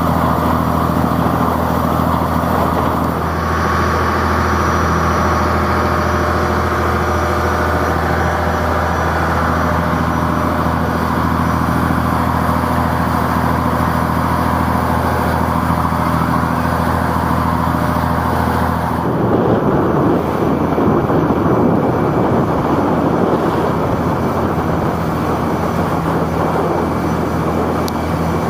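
Taxi boat's engine running steadily, a constant low hum mixed with a rushing of water and wind. About nineteen seconds in the hum is drowned for a few seconds by a louder rushing, then comes back.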